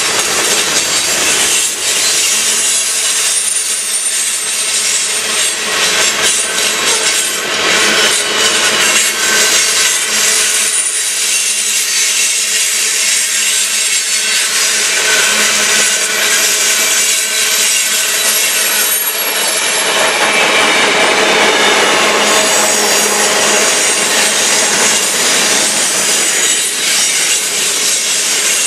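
Freight cars of a passing train rolling by close: steel wheels on the rails making a loud, steady grinding noise.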